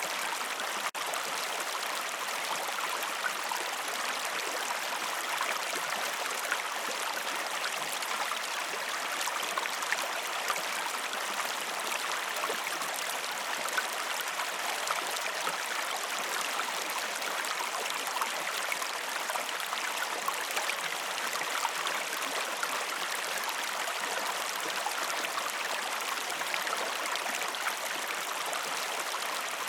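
River water flowing over stones: a steady, even rush with small splashes and trickles flickering through it.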